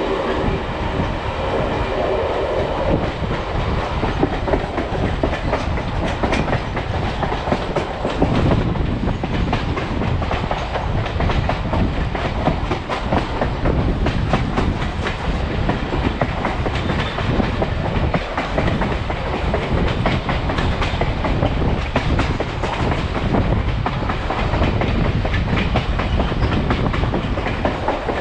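Passenger train coach running along the track: a steady rumble of wheels on rail with many rapid clicks and clacks from the rails.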